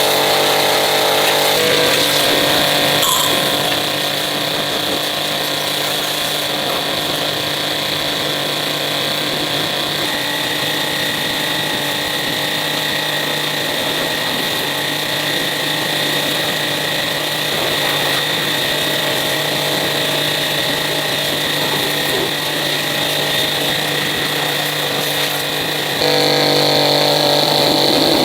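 A power tool's motor running steadily, with a sudden change in its pitch and loudness a few times.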